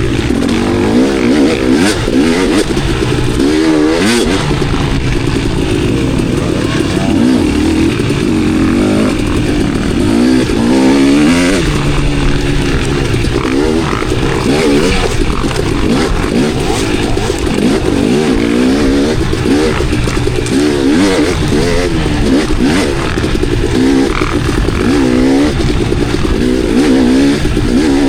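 Enduro dirt bike's engine being ridden hard on tight single-track trail: the revs keep rising and falling as the throttle is opened and shut between turns, with a few knocks and rattles from the bike.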